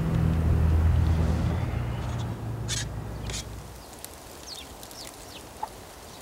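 A vehicle's low engine rumble that fades away over the first few seconds, followed by a few short bird calls and chirps.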